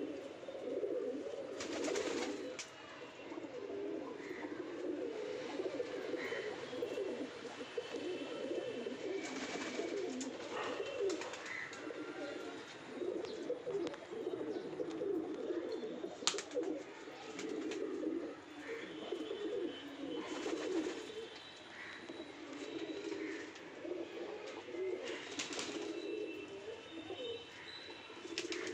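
Domestic pigeons cooing almost without pause, several birds' low, pulsing coos overlapping. A few short, sharp sounds break in now and then.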